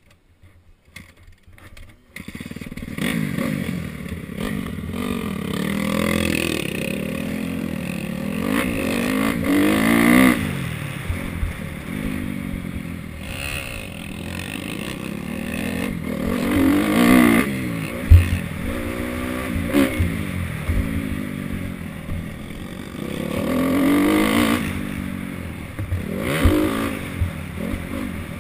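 Motocross dirt bike engine revving up and down repeatedly as it rides, its pitch climbing and dropping several times, with a sharp knock partway through. The engine starts being heard about two seconds in.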